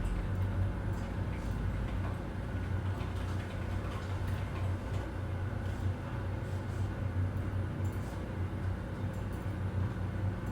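Office ambience: a steady low hum with scattered faint ticks and clicks over it.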